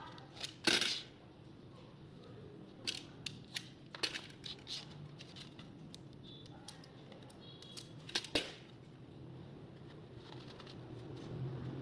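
Scattered light clicks and knocks of small hard objects being handled and set down, with sharper knocks about a second in and about eight seconds in, over a faint steady low hum.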